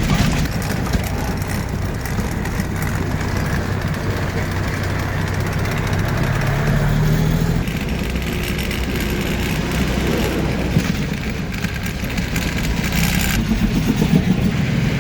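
Truck engine running steadily under way, its note shifting about eight seconds in and again near the end.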